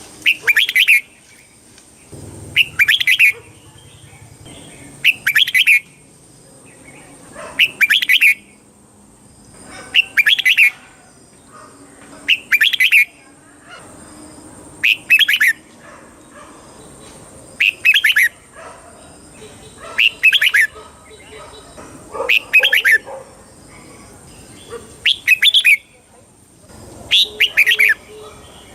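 Red-whiskered bulbul singing: a short, bright, warbled phrase repeated about every two and a half seconds, around a dozen times.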